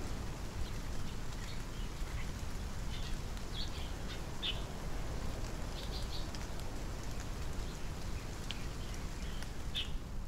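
Outdoor ambience: birds giving short, scattered chirps over a steady low rumble.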